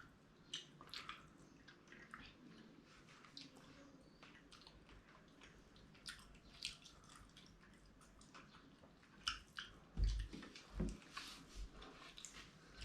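Close-up wet eating sounds of dhido with fish gravy: scattered small squishy clicks and smacks of soft dough being mixed and chewed, with a few low thumps about ten seconds in.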